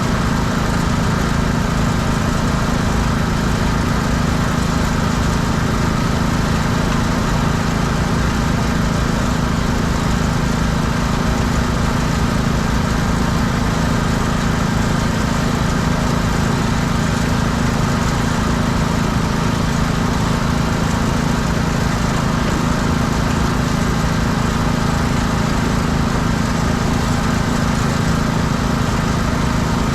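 Small gas engine of a pressure washer running steadily at constant speed.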